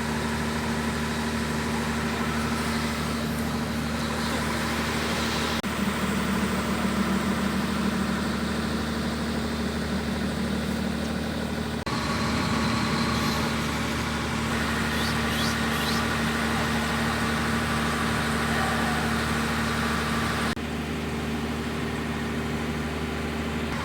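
Tour boat's engine running steadily, heard from on board. Its hum changes abruptly in tone three times.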